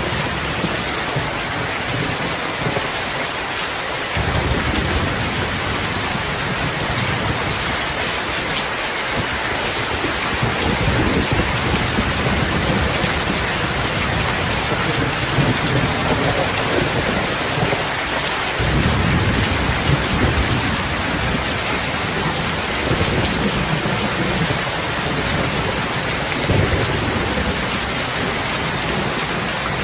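Heavy rain falling steadily, with rolls of low thunder rumbling in several times: about four seconds in, again around ten seconds, and a longer spell past the middle.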